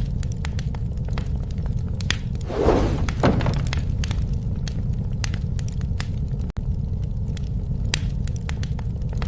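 Bonfire burning: a steady low roar under frequent sharp crackles and pops of burning wood, with two louder rushing bursts about three seconds in. The sound drops out for an instant just past six seconds.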